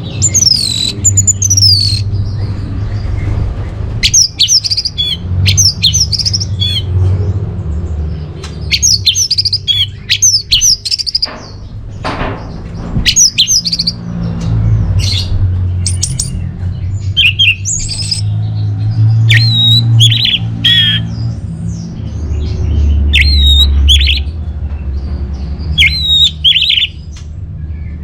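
Orange-headed thrush singing: a rapid, continuous run of varied high whistled phrases, many sliding down in pitch, over a steady low hum.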